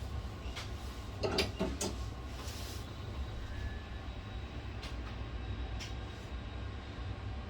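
Steady low hum with a few sharp clicks and taps, a cluster about a second in and two single clicks later on, typical of small tools being handled on a workbench.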